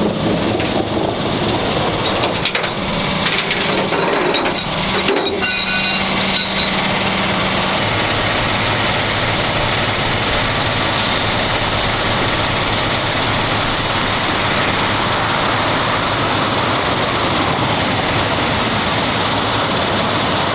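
Steady drone of running vehicle engines, with a stretch of rattling and clattering about three to seven seconds in.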